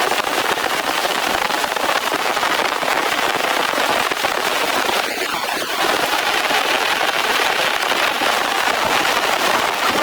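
Heavy rain falling in a dense, steady crackling patter.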